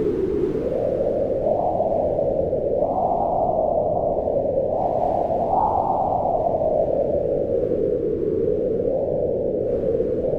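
Low wind blowing steadily, its pitch rising and falling as gusts swell and ease, with a swell about three seconds in and another about halfway through, settling lower toward the end.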